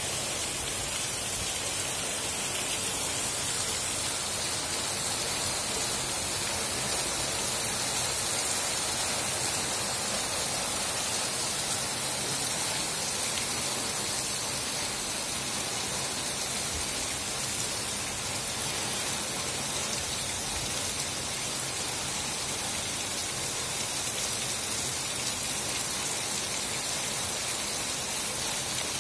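Heavy monsoon rain falling steadily: an even, unbroken hiss.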